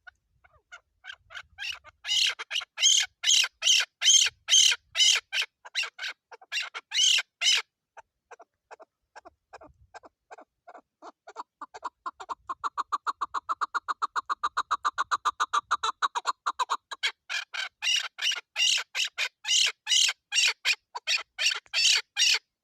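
Chukar partridge calling a long run of short, rapidly repeated clucking notes. The run speeds up and softens in the middle, then grows louder again toward the end.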